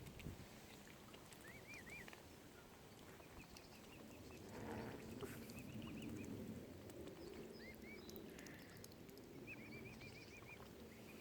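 Mute swan cygnets peeping faintly: scattered runs of short, high, arching peeps over a low rumble.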